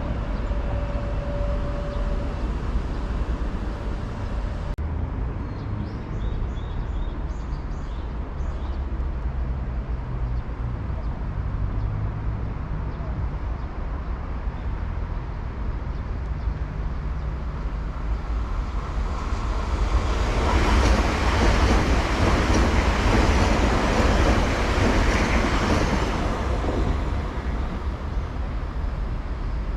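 A train running past on the rails: a steady low rumble that swells into a loud rushing of wheels on track for about six seconds in the second half, then fades back.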